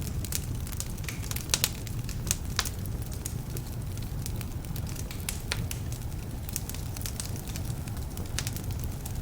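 Wood fire burning in a fireplace: a steady low rush with frequent sharp crackles and pops from slightly damp logs, a few louder pops between about one and a half and two and a half seconds in.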